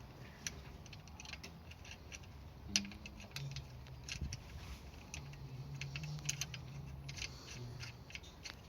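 Light, irregular metallic clicks and taps of hand tools on nuts and bolts as motorcycle engine-bracket bolts are done up, with one sharper click about three seconds in. A faint low hum runs underneath through the middle and later part.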